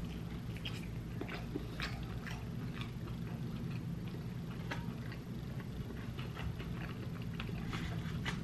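Close-up chewing and wet mouth clicks of someone eating a quesabirria taco, with many small irregular clicks, over a steady low hum.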